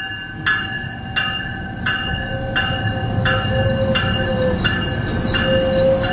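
Metrolink bi-level commuter train rolling slowly past at close range as it draws into the station: a low rumble of wheels on rail with steady high-pitched ringing. A bell strikes in an even beat about every 0.7 s. A lower squeal, typical of brakes or wheels, comes in about two seconds in.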